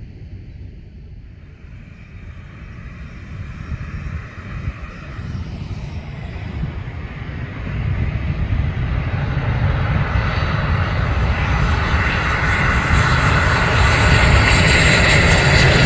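Jet engines of a Boeing 777-300, Rolls-Royce powered, growing steadily louder as the airliner draws closer: a low rumble at first, with a loud rushing hiss building over the second half.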